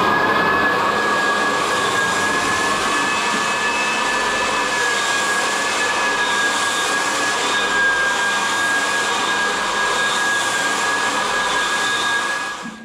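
Floor sanding machine running steadily at full speed, a motor noise with a constant high whine, cutting off near the end.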